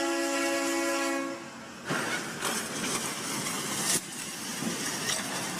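Train air horn sounding a steady multi-note chord that cuts off about a second and a half in. It is followed by steady noise with two sharp bangs, about two and four seconds in.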